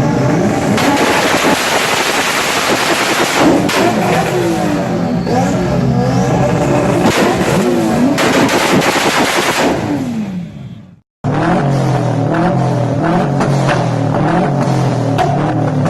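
A tuned car engine revving up and down, its exhaust firing off rapid pops and bangs (backfires). It stops abruptly near eleven seconds in, and after a brief silence a second engine picks up with a dense, rapid crackle of exhaust pops.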